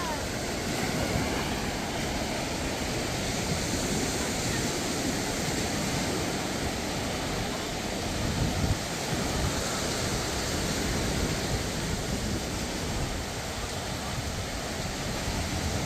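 Surf washing steadily onto a sandy beach, with wind rumbling on the microphone.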